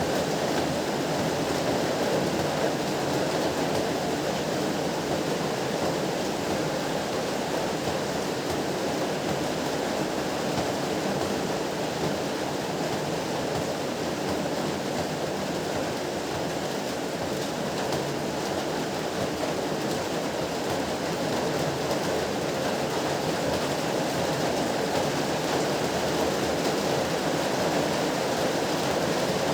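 Heavy rain falling steadily in an even, unbroken rush.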